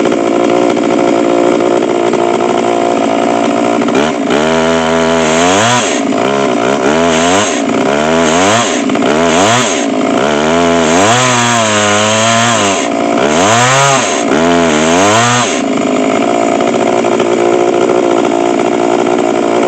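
A chainsaw on an Alaskan chainsaw mill runs flat out, ripping a log. From about four seconds in, its engine pitch repeatedly sags and climbs again for about ten seconds, then it settles back to a steady high speed.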